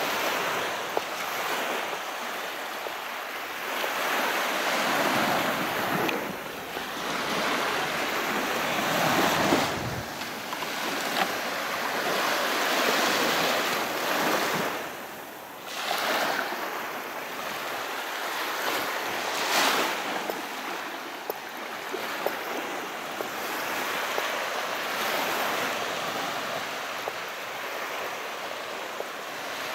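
Sea waves washing onto the shore, a steady hiss of surf that swells and eases every few seconds, with one brief lull about halfway through.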